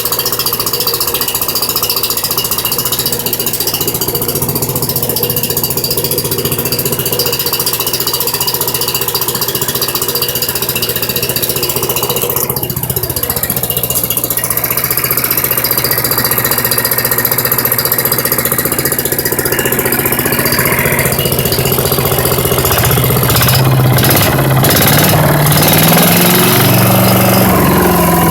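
5.5 HP Tecumseh OHV single-cylinder engine on a Yard Machines wood chipper running steadily with a chattering beat, its pitch dipping briefly about halfway through; near the end it gets louder and is revved up and down.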